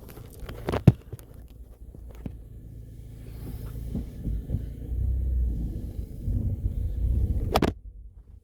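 Low rumble of a car being driven, heard from inside the cabin, with a sharp knock about a second in. The rumble grows louder from about four seconds in and cuts off suddenly near the end.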